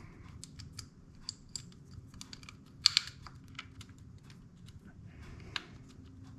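Light, irregular clicks and taps of small metal parts being handled as motorcycle power valve cables are fitted into their pulley, with a sharper double click about three seconds in.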